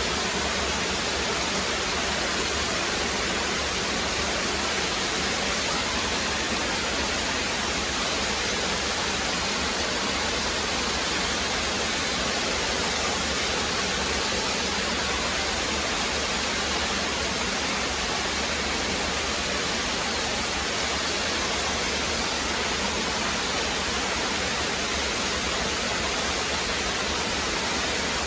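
Rocky brook rushing and splashing over stones, a steady, even rush of water.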